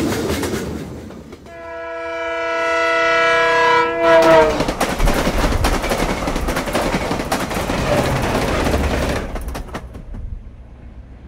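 A train sound: a rushing noise, then a horn sounding a chord for about three seconds, its pitch sagging as it ends. The train then rumbles and clatters past and fades out near the end.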